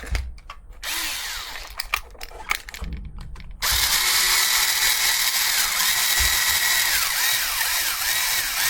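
Electric screwdriver with a brushed motor driving long screws into a brace, described as noisy. It runs in short bursts with clicks at first, then runs steadily from about three and a half seconds in, its whine dipping and recovering over and over as it loads up.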